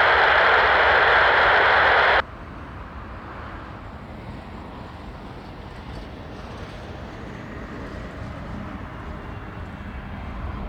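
Airband radio hiss that cuts off abruptly about two seconds in as the transmission ends. It is followed by the quieter, steady rumble of an Airbus A320neo jet on landing approach, slowly growing louder.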